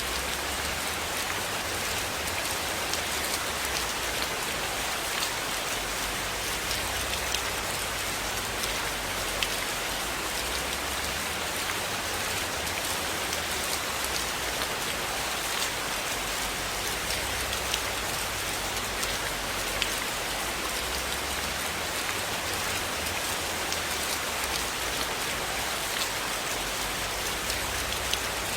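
Steady rain falling on a surface: an even hiss with many scattered sharp ticks. A low hum underneath comes and goes.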